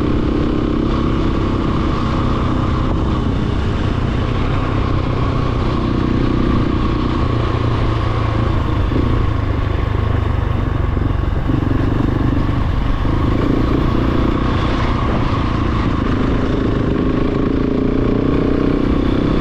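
Large single-cylinder adventure dirt bike running under way at a steady pace, its engine pitch climbing near the end as it speeds up.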